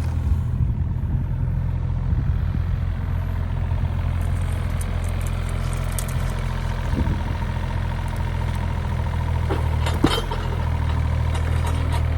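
Engine idling steadily at low speed, with a few sharp clicks or knocks near the end.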